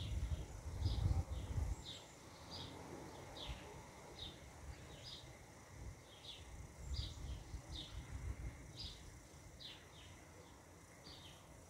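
A bird repeating a short, falling chirp over and over, roughly once or twice a second. Wind buffets the microphone with a low rumble during the first two seconds and again around seven seconds in.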